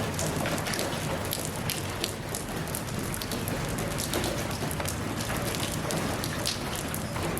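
Steady rainfall, a dense hiss with many individual drops pattering close by.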